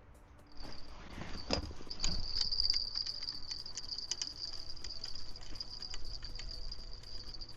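Crickets chirring steadily at a high pitch, starting about half a second in. A few sharp clicks and a low rumble come in the first two seconds.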